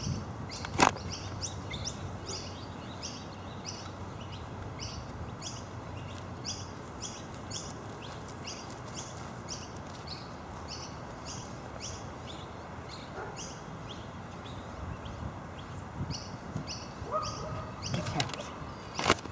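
A bird chirping over and over, short high chirps about twice a second, over a steady outdoor hiss. A sharp knock comes about a second in and another at the very end.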